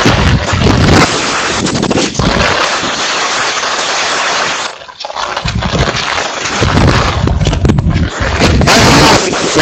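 Typhoon wind buffeting the microphone: a loud, gusty rushing with low rumbles, easing off for a moment about halfway through and then rising again.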